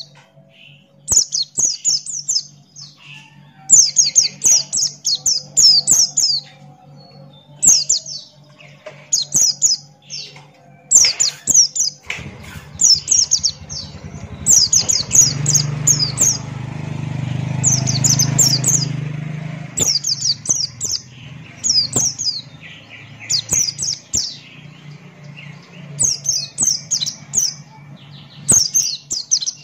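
White-eye (pleci buxtoni) singing hard, with high, rapid twittering trills about a second long, repeated every one to two seconds. A steady low hum runs underneath and swells with a rushing noise midway through.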